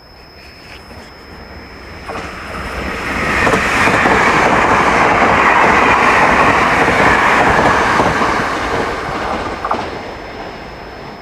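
A Taiwan Railway train passing through the station. The rail and wheel noise builds over a few seconds, stays loud for about four seconds, then fades away.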